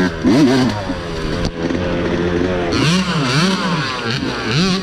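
Dirt bike engine running under the rider, its revs rising and falling repeatedly as the throttle is worked over the trail.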